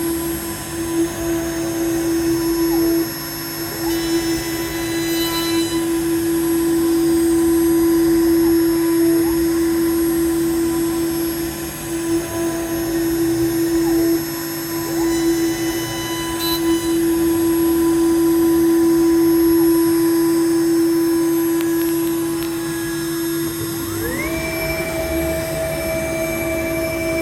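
PrintNC CNC router's spindle driving a 25 mm three-flute face mill with PCD inserts through a light 0.1 mm face-milling pass. It makes a steady, even whine. About 24 seconds in, a second, higher whine rises quickly and then holds.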